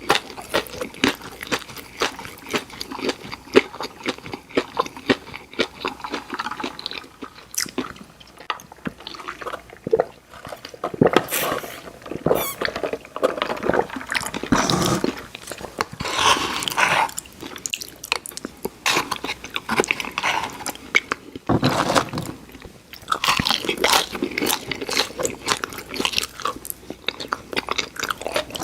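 Close-miked eating: a person biting, crunching and chewing fried fast food, with a steady run of irregular mouth clicks and crackles.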